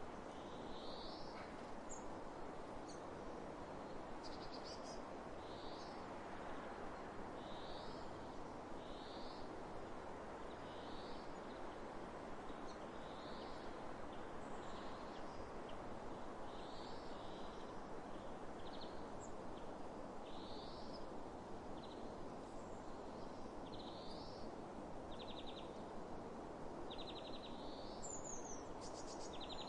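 Steady wind across open fields, with a bird repeating a short high call about once every second or so; near the end, buzzier trilling calls join in.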